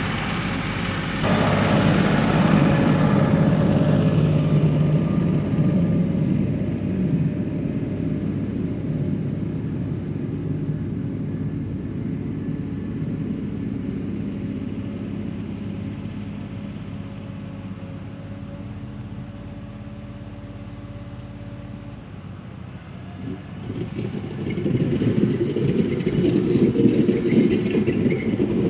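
Diesel engine of a 1985 John Deere 1050 compact tractor running while plowing snow. It is loud at first, fades gradually over about twenty seconds, then grows loud again near the end.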